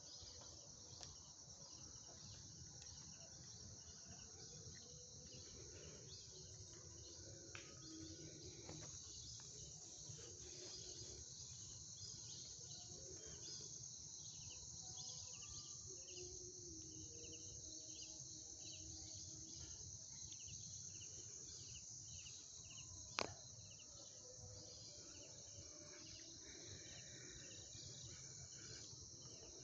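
Crickets and other night insects chirring steadily and faintly: a continuous high trill with a row of regularly pulsed chirps beneath it. A single sharp click stands out about two-thirds of the way through.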